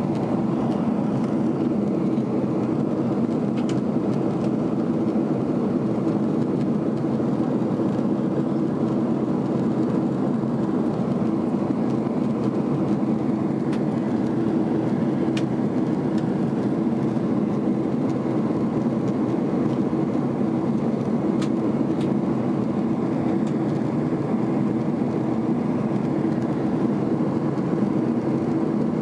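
Steady cabin noise of a Boeing 767 in flight, heard from inside the passenger cabin: a low, even roar of jet engines and airflow with a steady hum. A few faint clicks sound now and then.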